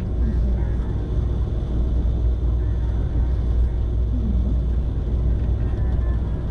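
Steady low rumble of a moving passenger train running along the track.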